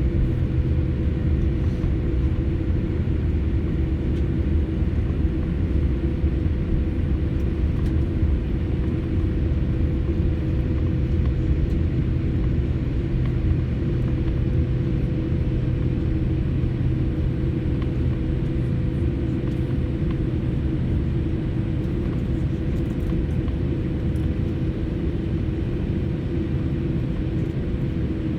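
Steady rumble and hum inside a jet airliner's cabin on the ground before takeoff, with a few constant low tones under it.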